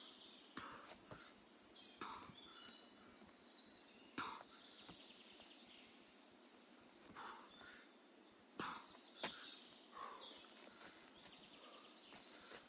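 Woodland birds chirping and trilling faintly, with several soft thumps and rustles of feet on the forest floor and a couple of sharper clicks about four and nine seconds in.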